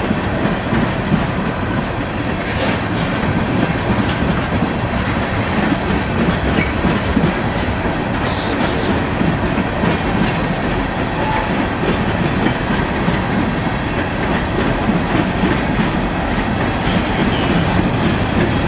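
Freight train cars, tank cars then covered hoppers, rolling past steadily, their steel wheels running loudly along the rails.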